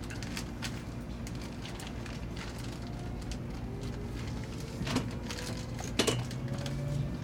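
Inside the cabin of a CRH2 high-speed electric multiple unit pulling away from a station: a steady low hum, with a faint whine that slowly rises in pitch from about three seconds in as the train gathers speed. Two sharp knocks stand out, about five and six seconds in.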